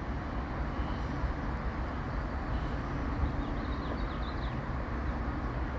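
Steady low rumble of distant engines, with no distinct events standing out.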